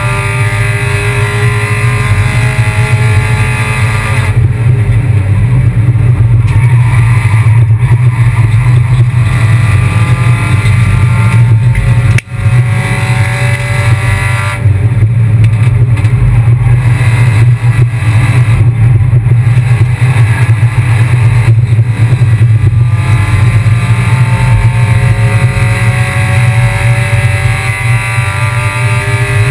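Kia Picanto race car's engine running hard under racing load, its pitch climbing as it accelerates at the start and again near the end. A brief break in the sound comes about twelve seconds in.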